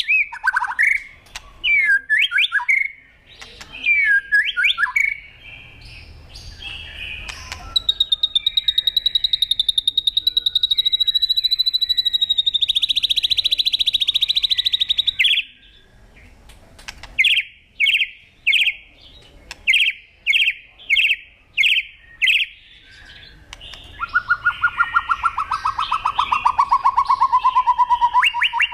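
Songbird singing: varied quick chirps, then a long, rapid high trill lasting several seconds, a run of short sharp notes, and near the end a lower trill that falls in pitch.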